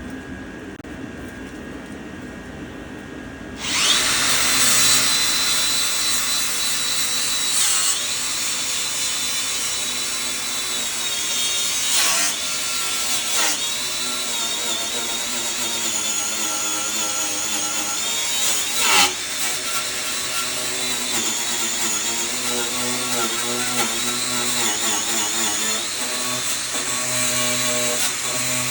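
A power tool starts about four seconds in and runs steadily with a high whine while working material, its pitch dipping briefly a few times under load.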